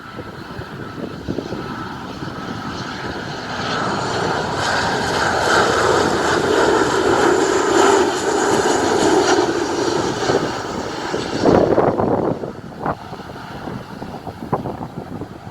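Airliner passing low overhead on its landing approach: its engine noise swells a few seconds in, holds loudest for several seconds, then fades. Near the end, gusts of wind buffet the microphone.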